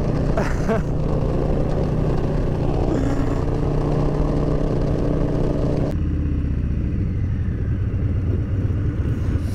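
Harley-Davidson Street Bob's V-twin engine running at road speed with wind noise. About six seconds in, the wind noise drops away and the engine falls to a lower, slower beat as the bike rolls off and slows.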